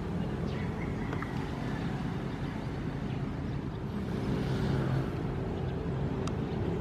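Ocean surf: a steady low rumble of waves, with one wave swelling and washing in about four seconds in.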